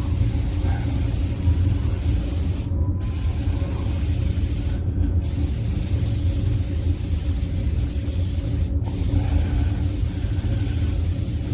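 Compressed-air paint spray gun laying on a wet coat of two-component primer surfacer: a steady hiss that stops briefly three times as the trigger is released between passes, over a steady low rumble.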